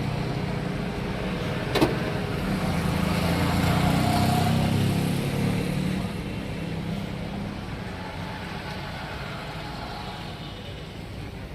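A motor vehicle's engine running close by as a low rumble that swells in the middle and eases off after about six seconds, with one sharp knock about two seconds in.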